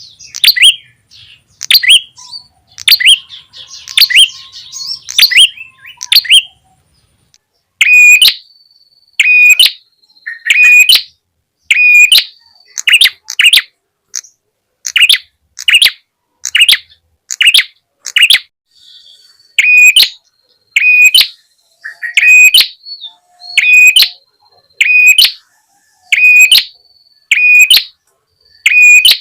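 Recorded lure call of the prenjak tamu (red-headed prenjak), a small songbird, giving sharp chirps. A quick run of calls at the start gives way, after a short pause, to loud, short chirps repeated evenly about once a second.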